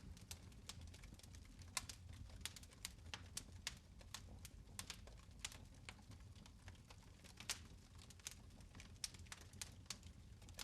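Fire in a fireplace crackling faintly, with irregular sharp pops and ticks a few times a second over a low steady hum.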